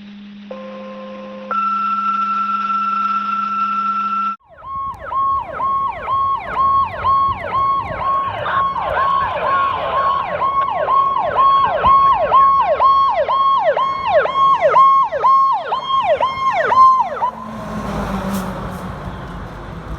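Fire engine's electronic siren on a fast yelp, the pitch dropping and snapping back up just under twice a second, after a few seconds of steady electronic tones. The siren stops a little before the end, leaving the rumble of the truck and traffic.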